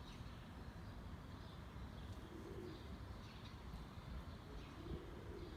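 Pigeons cooing faintly outside: two soft low coos, about two and a half seconds apart, over a steady low background rumble.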